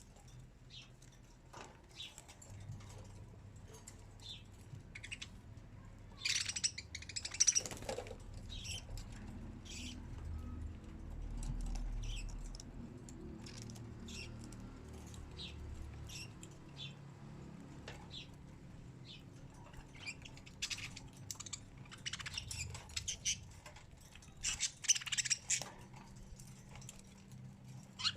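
Birds chirping in short, scattered high calls, with denser runs of chirps about six to eight seconds in and again near the end, over a faint low hum in the middle.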